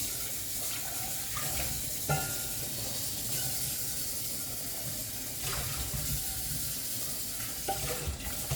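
Kitchen tap running steadily, with a few light clinks.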